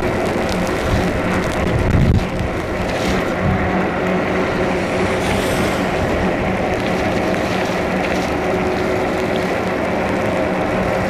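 Riding noise from a fat-tire e-bike in heavy rain: a steady rush of wind and wet tyres with a constant low hum. There is a short low thump about two seconds in.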